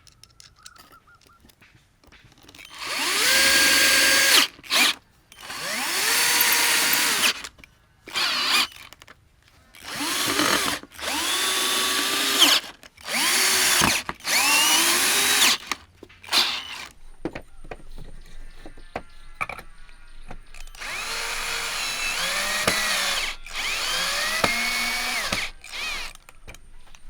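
Power drill run in a series of short bursts, about nine in all, each spinning up, held for a second or two, then winding down. There is a longer quieter gap around the middle.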